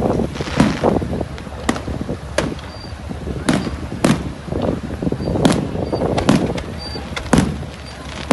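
Fireworks and firecrackers going off: about a dozen sharp bangs at uneven intervals, some close together, over a steady low rumble.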